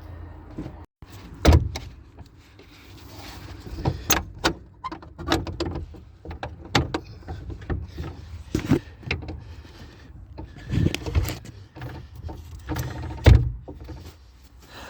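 Irregular knocks, clicks and clunks of handling around a car, with a heavy thump about a second and a half in and another near the end.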